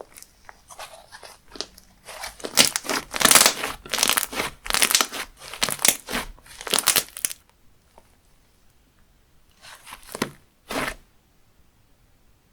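Hands squeezing and stretching a textured slime, giving crackling, crunchy pops. A dense run of crackling lasts about five seconds, then after a pause come two short crackles near the end.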